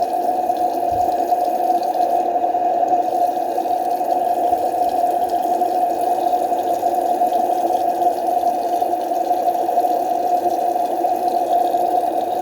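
Water running steadily from a tap into a sink or tub during a cat's bath.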